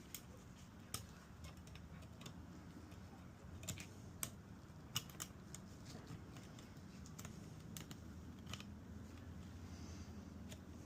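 Light, irregular metal clicks and ticks of a piston ring being spread with a ring expander tool and worked onto a piston.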